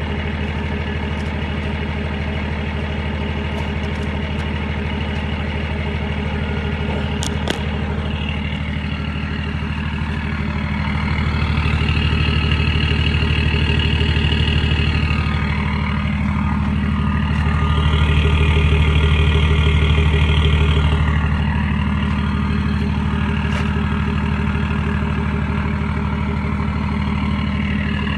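BMW E38 3.0d straight-six turbodiesel running through a straight-through exhaust with no silencers. It idles steadily, then the revs rise and are held for a few seconds twice, about eleven and eighteen seconds in.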